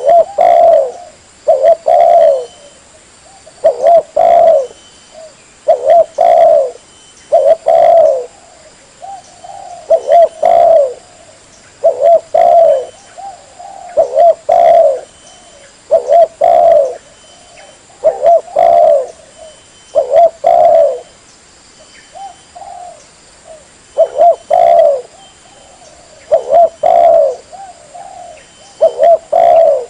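Spotted dove (tekukur) cooing over and over, a lure call for attracting the birds: short phrases of two or three coos, repeating about every two seconds.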